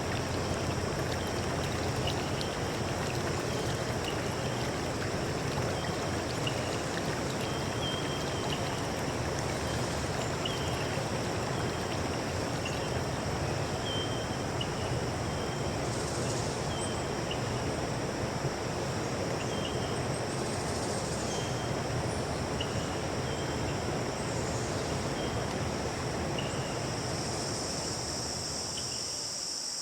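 A stream flowing with a steady rush of water. Over it runs a steady high-pitched drone, and short high chirps repeat every second or two.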